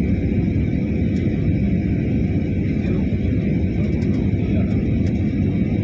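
Steady low rumble of engine and airflow noise inside a jet airliner's passenger cabin on its landing approach, with a faint high steady tone running through it.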